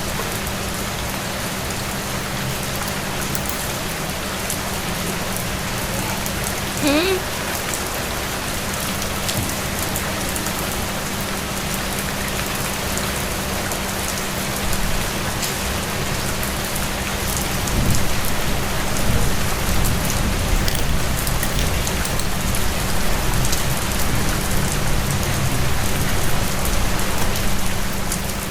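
Steady rain falling and pattering on surfaces, an even hiss throughout, over a steady low hum. A brief rising sound comes about a quarter of the way in, and a low rumble grows louder from about two-thirds of the way through.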